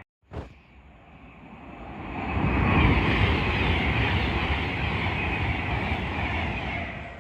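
A train passing through the station. Its rumble and rail noise build over about two seconds, hold loud, then ease off near the end.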